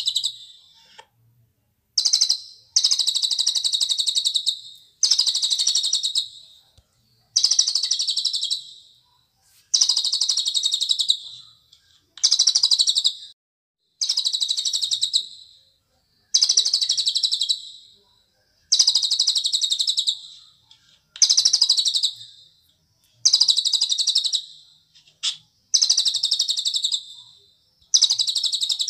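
A cililin songbird singing a high, rapid trilled phrase over and over, about a dozen phrases each a second or so long with brief pauses between them.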